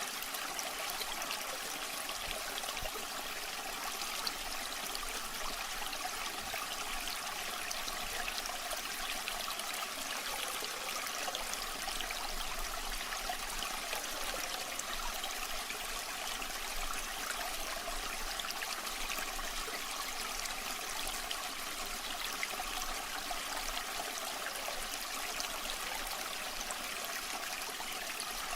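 Waterfall water running steadily: an even rush of falling water, mostly in the higher range with little deep rumble.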